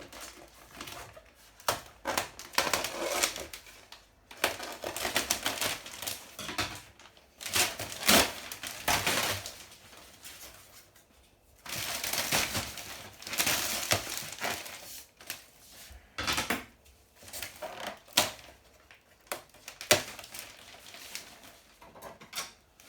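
Packaging being pulled, torn and handled while a new washing machine is unboxed: irregular rustling and scraping with scattered clicks and knocks.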